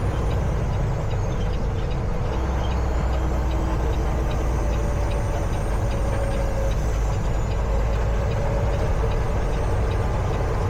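Peterbilt 379 semi truck heard from inside the cab while driving: a steady low engine drone with road noise.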